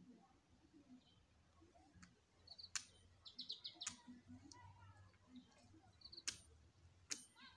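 Quiet, with small birds chirping in short, rapid trills a few times, and four sharp clicks standing out as the loudest sounds.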